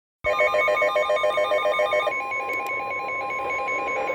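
NOAA Weather Radio alert sounding for a tornado warning: a fast-pulsing electronic alarm, joined about two seconds in by the steady high warning alarm tone, with beeping continuing under it.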